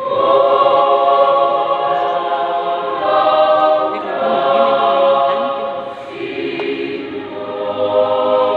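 Mixed choir singing sustained chords in several parts, phrase after phrase, with a softer, lower chord about six seconds in.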